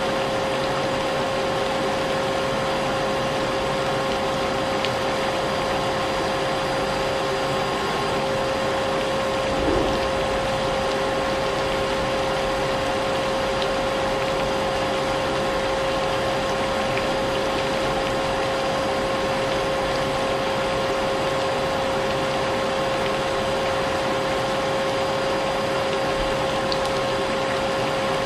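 Vacuum cleaner running steadily: a constant motor whine over a rushing hiss, with one small knock about ten seconds in.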